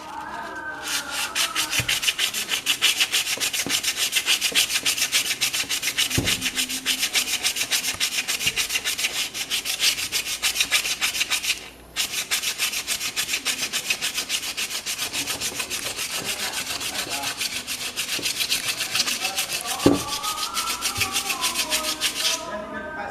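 Quick, steady back-and-forth rubbing strokes of hand sanding, with a brief pause about halfway through.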